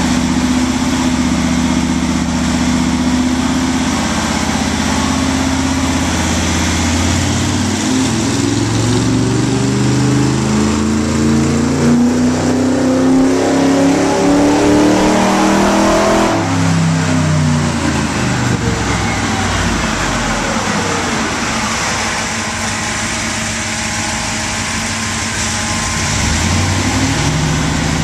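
Classic car's engine running on a chassis dynamometer: steady at first, then a dyno pull, its pitch rising steadily under load for about eight seconds to a peak, then winding back down and settling to a steady run again.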